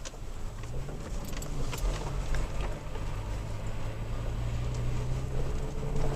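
Toyota Tacoma 4x4 engine running steadily under way on a rough trail, its low note rising slightly, with scattered rattles and knocks as the truck bounces over the ground.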